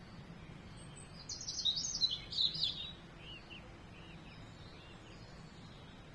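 A songbird singing one quick phrase of high, rapid chirps lasting about a second and a half, then a few fainter, softer notes, over a steady low background hum.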